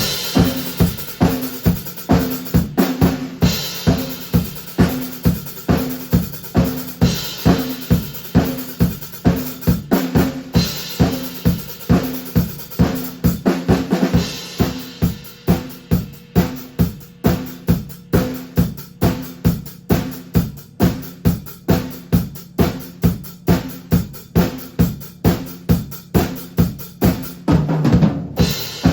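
Drum kit played on its own with no backing track: a steady bass drum and snare groove at about two to three hits a second. A louder, hissing accent lands roughly every three and a half seconds.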